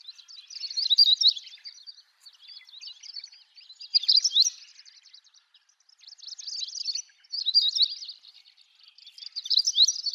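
Long-tailed rosefinch singing: six short, high twittering phrases, each about a second long, coming one after another with brief pauses.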